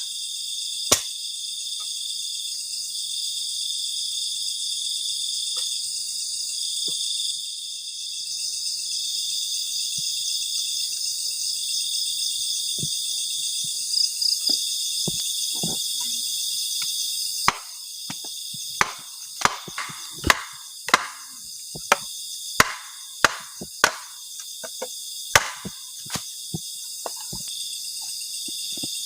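Steady, loud high-pitched chorus of crickets and other insects, pulsing rapidly. Over it come sharp chopping knocks, a few early on and then a dozen or so in quick irregular succession through the second half, as wood is cut for a campfire.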